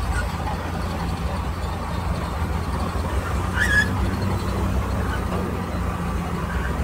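Heavy diesel earthmoving machinery running steadily with a low engine rumble. A brief high squeak comes a little under four seconds in.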